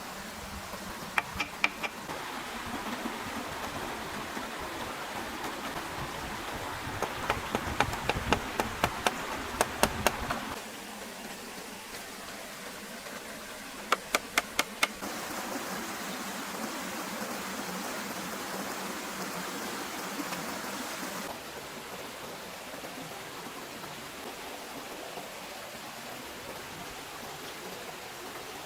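Clusters of sharp knocks over a steady hiss: three about a second in, a quick run of about ten between seven and ten seconds in, and five more around fourteen seconds in. The background hiss changes abruptly a few times, then runs on without knocks for the second half.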